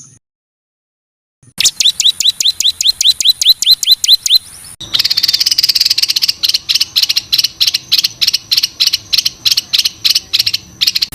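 Recorded songbird 'tembakan' song: fast trains of short, sharp repeated notes. About a second and a half in, one bird starts at about seven notes a second. Near five seconds it cuts abruptly to another rapid run of repeated notes, about five a second, over a faint steady hum.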